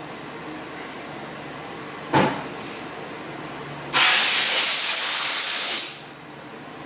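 Steam cleaner wand blowing pressurized steam: a short puff about two seconds in, then a loud, steady hiss lasting about two seconds. A faint low hum runs underneath.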